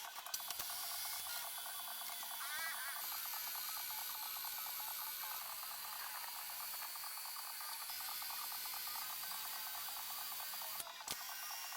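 Rapid, even mechanical clicking over a steady hiss, with a short wavering squeak about two and a half seconds in.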